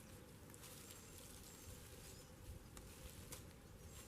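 Near-silent woodland ambience with faint, short high-pitched chirps repeating every second or so and a few soft clicks.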